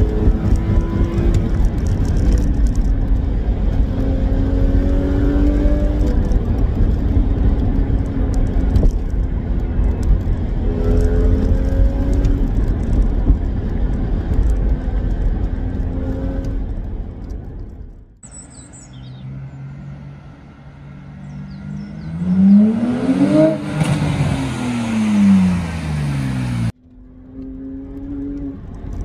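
BMW Z4 3.0si's N52 3.0-litre straight-six, breathing through an aFe intake and a modified exhaust, heard from inside the cabin with the windows closed, its note rising in pitch several times as it pulls. About eighteen seconds in the sound drops to a quieter outdoor scene with a short bird chirp, and the car drives past, its engine note climbing and then falling as it goes by. Near the end the in-cabin engine sound cuts back in.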